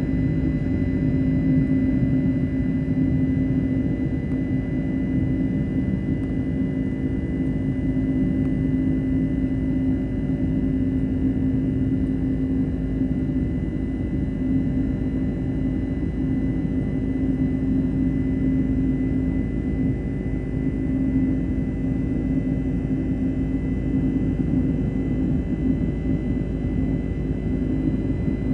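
Cabin noise of a Boeing 767-300ER in its climb shortly after takeoff: a steady, even rumble of the jet engines and airflow with a constant low hum and a thin high whine.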